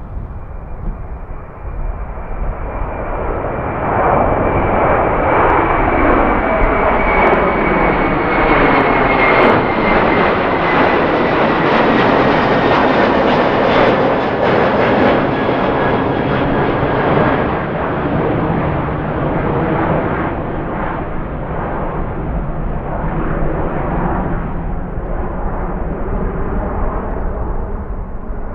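Jet airliner passing close by, its engines running: the noise swells about four seconds in and slowly fades over the second half, with a high engine whine that falls gradually in pitch as it goes past.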